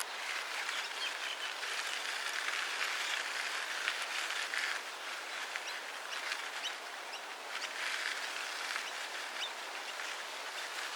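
Steady outdoor hiss with many short, high bird chirps scattered through it.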